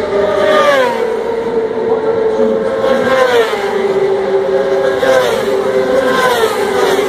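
Superbike racing motorcycles running at high revs past the listener, their engine notes falling in pitch several times in succession over a steady underlying tone.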